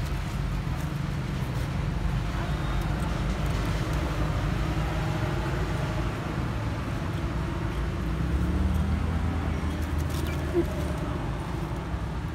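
Steady low rumble of a running engine, joined by a steadier low hum from about eight seconds in.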